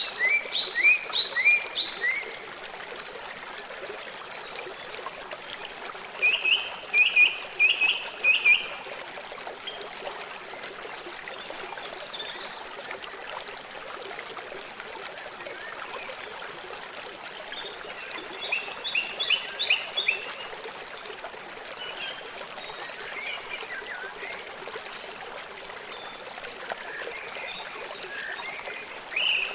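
A forest stream running steadily. Over it come recurring bouts of four to six quick, short, falling chirps from a small animal every few seconds, with a few higher-pitched calls in between.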